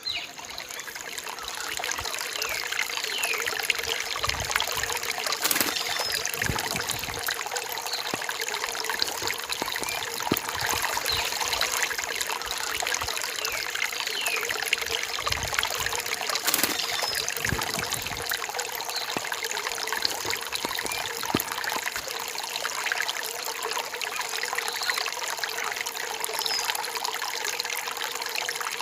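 Small rain-forest stream trickling and splashing over rocks, a steady running-water sound that fades in over the first second.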